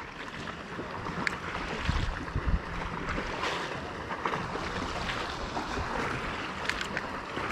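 Wind blowing over the microphone: a steady hiss with uneven low rumbles of gusts, strongest about two seconds in. A few light clicks come through it.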